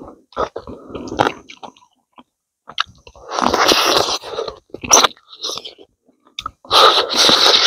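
A man chewing mouthfuls of rice and cooked rabbit meat eaten by hand, in bouts about a second long with small clicks between them; the two loudest come in the middle and near the end.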